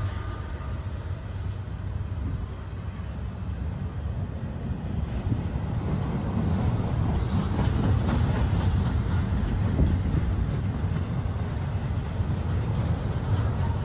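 Double-stack intermodal freight train's container well cars rolling past close by: a steady low rumble of steel wheels on rail that grows a little louder partway through, with fine rapid clicking joining in after about five seconds.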